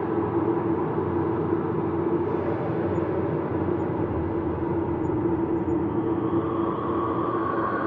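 Ambient space drone: a steady, layered hum of sustained tones over a soft rushing noise, with higher tones swelling in near the end.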